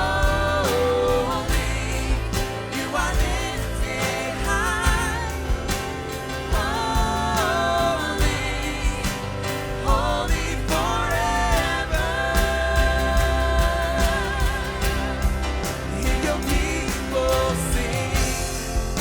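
Live worship band playing a slow Christian worship song: drums, bass, synth pad and piano, with singers holding long, wavering notes over it.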